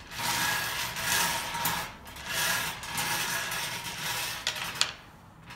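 Numbered balls tumbling and rattling inside a turning draw cage, in uneven surges. A few sharp clicks come just before it stops, near the end.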